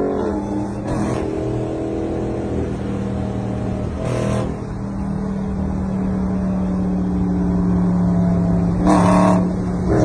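Sports car engine held at high, steady revs, its pitch settling about a second in, with three short sharp cracks spread through it.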